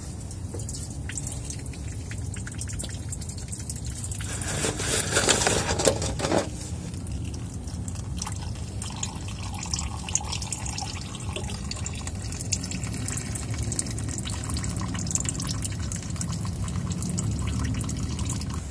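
Engine oil running and dripping into a bucket from the oil filter mount as the filter is taken off. There is a louder rush of oil for about two seconds, starting about four seconds in.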